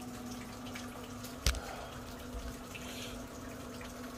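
Rain dripping beside a running Pit Boss Pro Series pellet grill, over the steady low hum of the grill's fan, with one sharp knock about a second and a half in.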